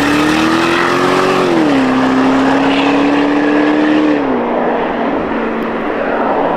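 A 2023 Range Rover's twin-turbo V8, fitted with a Quicksilver Sound Architect exhaust, accelerates away. The revs climb, drop at a gearchange about a second and a half in, hold steady, then drop again at a second shift around four seconds in as the car fades into the distance.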